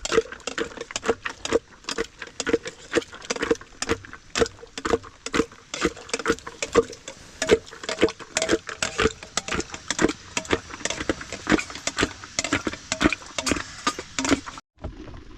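Rapid, irregular sharp taps and knocks, several a second, that break off abruptly near the end.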